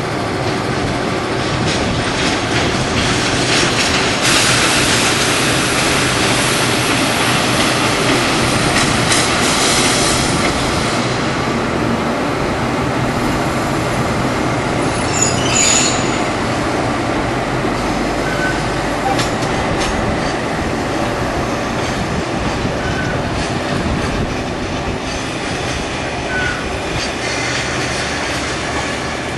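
JR Freight container train of Koki flat wagons rolling along the track, its steel wheels rumbling and clattering steadily. A brief high-pitched wheel squeal comes about halfway through.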